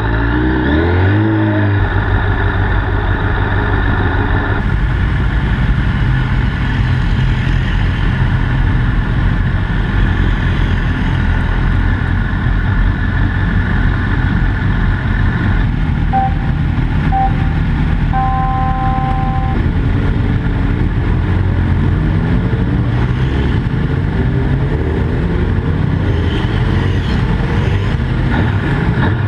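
Honda CBR1000RR's inline-four engine at speed on a race track, heard from the bike itself, its pitch rising and falling with throttle and gear changes. A few short electronic beeps sound about two-thirds of the way through.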